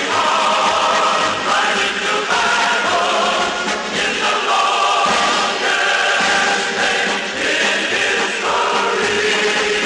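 Choir singing the march theme over instrumental accompaniment, in long held chords that move to a new pitch about once a second.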